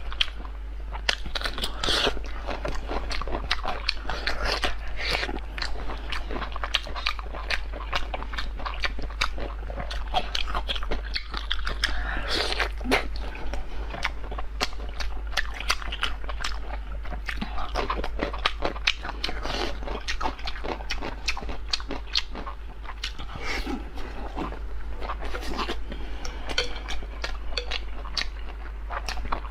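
A person chewing and biting food close to the microphone, with dense, irregular crunching clicks throughout, over a steady low hum.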